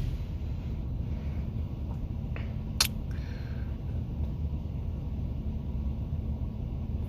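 Steady low rumble of the idling truck heard from inside the cab during a lull in the automatic car wash, with one sharp click about three seconds in.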